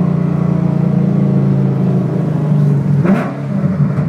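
Ford Shelby GT500's V8 engine running hard at steady revs, its note easing slightly about halfway through. A little after three seconds there is a brief break with a short rush of noise, then the engine note picks up again.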